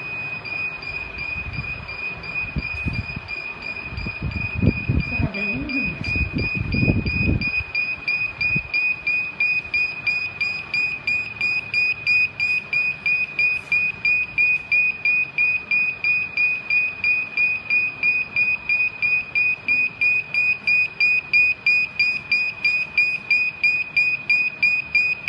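A mattress border tape sewing machine running, with a steady high-pitched whine and an even pulse of about three beats a second that becomes distinct about ten seconds in. Low thuds and handling sounds come in the first several seconds.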